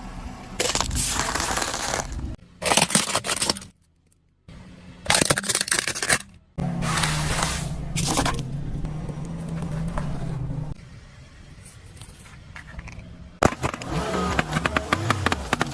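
Objects being crushed under a car: a run of separate crunching, crackling and scraping bursts, broken by hard cuts and a short silence about four seconds in.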